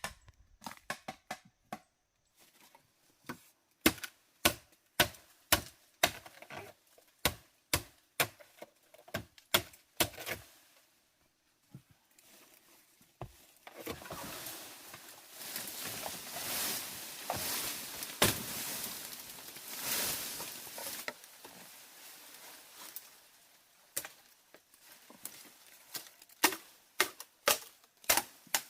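A series of sharp knocks or chopping strikes, about two a second, then a stretch of rough crunching and rustling, and more sharp knocks near the end.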